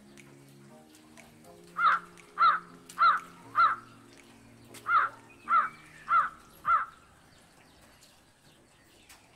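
A bird calling loudly eight times, in two groups of four calls a little under two a second, with a short pause between the groups.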